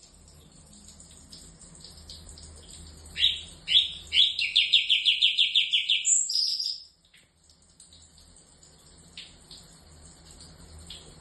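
Orange-bellied leafbird singing. About three seconds in come two loud down-slurred whistles, then a fast rattling trill of about nine notes a second for some two seconds, ending on a short higher note. Soft scattered chips come before and after.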